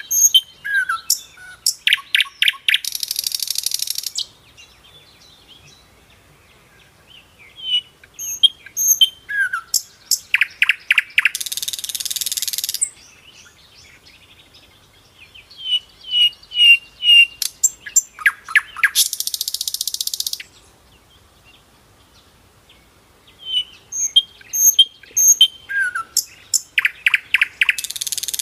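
Songbird song: a phrase of quick high chirps and whistles ending in a harsh buzzy trill, the same phrase repeating about every eight seconds.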